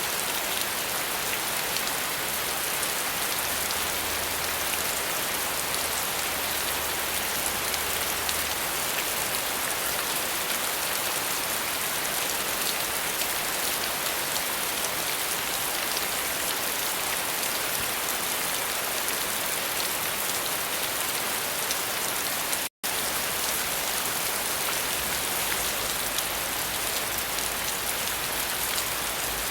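Steady rain falling, an even, dense patter without pauses. The sound cuts out for an instant about three-quarters of the way through, then carries on unchanged.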